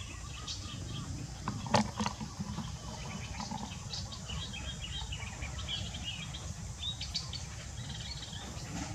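Small birds chirping off and on over a steady low rumble, with one sharp click a little under two seconds in.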